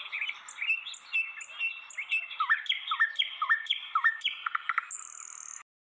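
Several birds chirping and squawking together, one repeating a short swooping call several times in a row. The sound cuts off abruptly shortly before the end.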